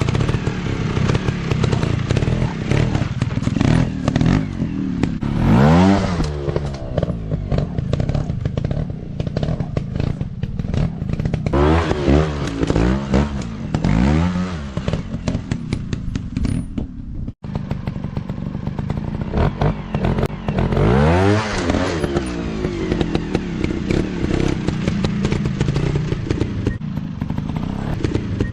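Motocross dirt-bike engines revving hard, their pitch climbing and falling over and over, with clattering and thuds mixed in. The sound cuts out for an instant about two-thirds of the way through.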